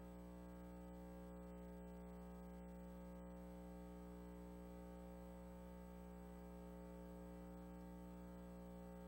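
Near silence with a faint, steady, unchanging hum from the sound system.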